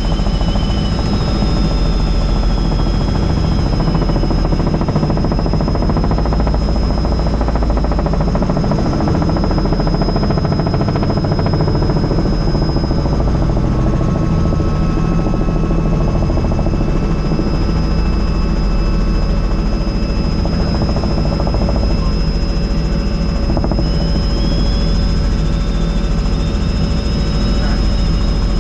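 Helicopter in flight, heard from inside the open, doors-off cabin: steady, loud rotor and engine noise heavy in the low end, with a steady high whine throughout.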